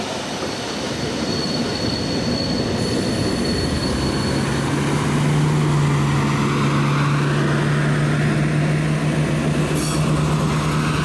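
Train running over the rails, heard from a moving carriage, with a thin high wheel squeal near the start. From about four seconds in, the steady low drone of a passing Siemens Desiro diesel multiple unit's engine grows to be the loudest sound.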